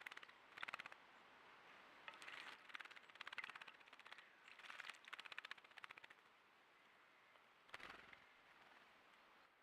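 A small bird bathing, flicking its wings in shallow water: several short bursts of quick fluttering splashes with pauses between.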